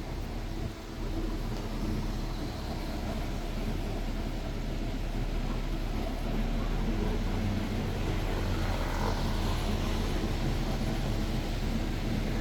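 Double-decker bus engine running with a steady low drone under road and traffic noise, growing slightly louder about halfway through.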